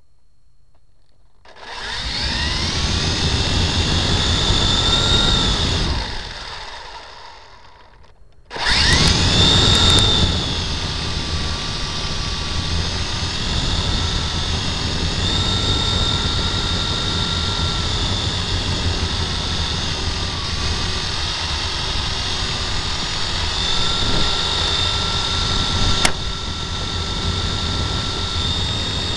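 Helicopter motor and rotor spinning up with a rising whine, winding down and stopping about six seconds in, then starting again abruptly and running on with a steady whine whose pitch wavers up and down as the throttle changes. A single sharp click sounds near the end.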